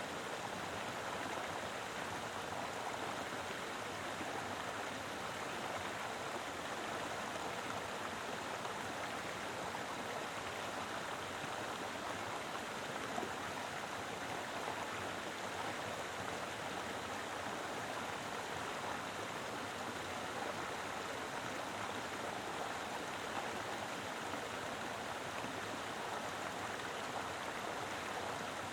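Mountain river flowing: a steady, even rush of water over rocks, with no breaks or changes.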